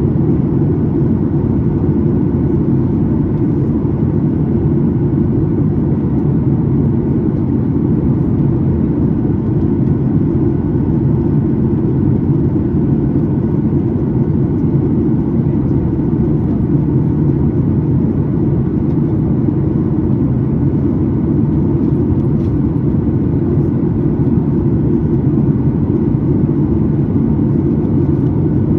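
Steady low drone of a Boeing 737-9 MAX's CFM LEAP-1B engines and airflow, heard inside the passenger cabin, unchanging throughout.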